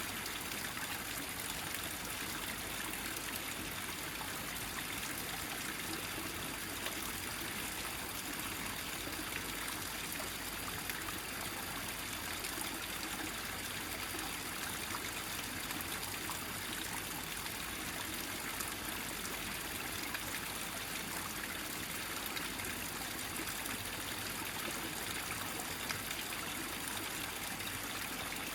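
Small mountain stream trickling steadily, its water gathered into one flow, with a gentle sound.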